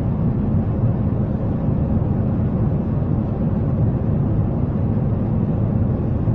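Boeing 737 jet airliner, a steady low rumble of its engines that holds even throughout.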